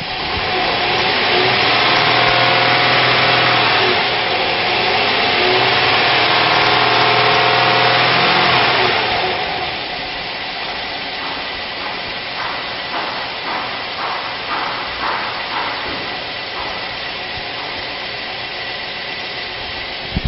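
1999 Chevrolet Tahoe's 5.7-litre V8 running. It is revved up and down for the first several seconds, then settles to a quieter steady idle about nine seconds in.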